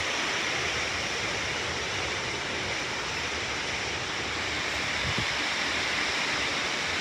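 Storm wind rushing steadily through trees, a continuous even roar of air and leaves.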